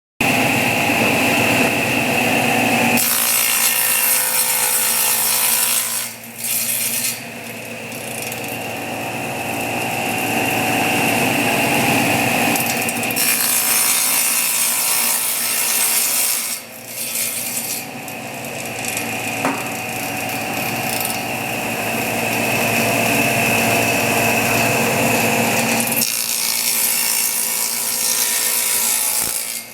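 Hammond Glider Trim-O-Saw G44B table saw running and sawing, with a steady high whine whose sound shifts from stretch to stretch and dips briefly twice.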